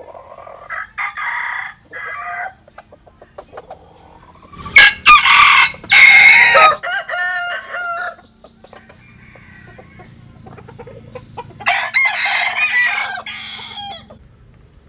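Bantam roosters crowing: a quieter call near the start, then two loud, drawn-out crows, about five seconds in and again about twelve seconds in.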